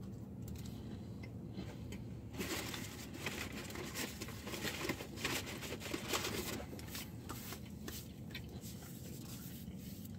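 A person chewing a sugar cookie close to the microphone: soft, irregular crackling mouth noises, busiest a few seconds in, over a low steady hum.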